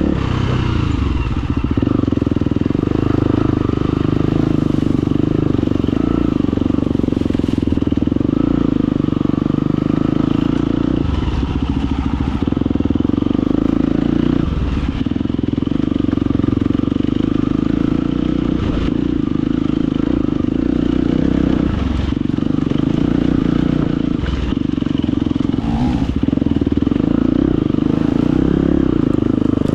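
Husqvarna FE250 four-stroke single-cylinder enduro engine running hard under load off-road. It holds steady revs, with brief drops every few seconds as the throttle is rolled off and on. Scattered short knocks and clatter come from the bike over rough ground.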